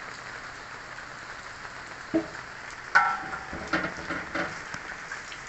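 Steady hiss of rain, with a sharp knock about two seconds in and a louder metallic clank that rings briefly about a second later, then a few lighter clatters, as of cookware being handled.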